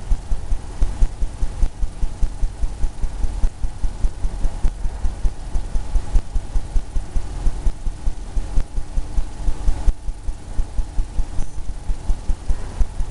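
Small paintbrush dabbing and stroking on a canvas on an easel, a fast run of low thumps about four to five a second as a wave's crest is painted.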